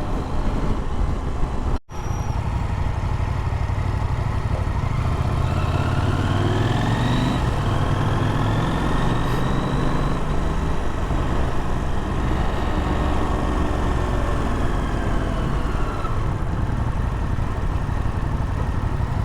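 Motorcycle engine running steadily while riding, with a very brief dropout of all sound about two seconds in.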